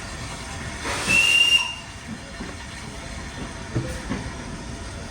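A short, high whistle blast over a burst of steam hiss about a second in, then a low rumble with scattered thumps from a steam train.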